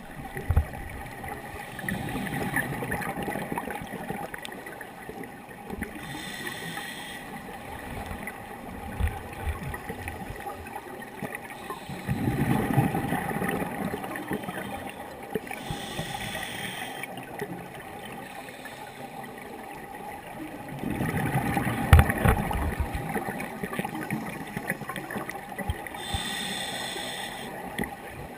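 Scuba regulator breathing heard underwater, about three breaths: a bubbling rumble on each exhale, and a short hiss a few seconds later on each inhale.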